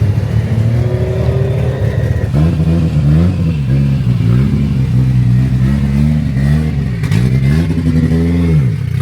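Car engine with a deep, low note running steadily, then revved in several throttle blips from about two seconds in, the pitch climbing and falling back each time; the last rev is the longest and drops back to idle near the end.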